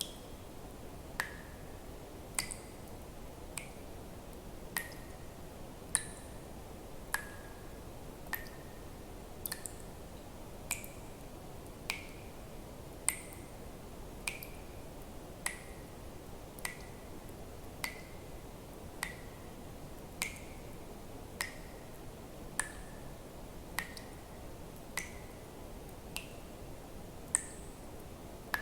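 Water drops falling one at a time at an even pace, a plink about every second and a quarter, each with a brief ringing tone that shifts a little in pitch from drop to drop, over a steady soft hiss.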